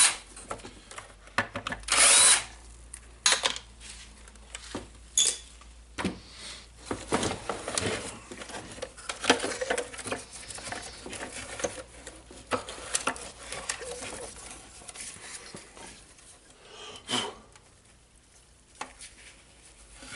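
A cordless drill or screwdriver runs in two short bursts, one right at the start and one about two seconds in. Scattered clicks and rattles of parts being handled follow, fading near the end.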